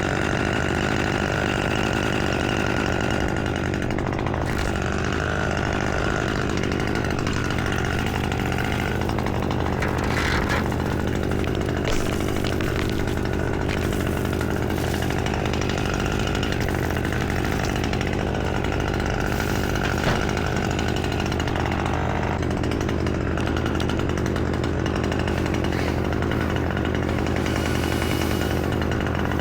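Chainsaw running at a steady, unchanging speed, with no break in the sound.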